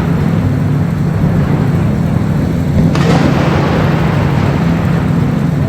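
Race car engines running on the circuit, a loud steady drone with a sharper burst of sound about three seconds in, as a car comes close.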